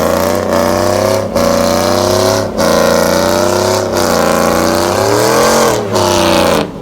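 A vehicle engine revving hard and held high, loud through its exhaust. The revs drop briefly every second or so, and near the end the pitch sags and climbs back before cutting off.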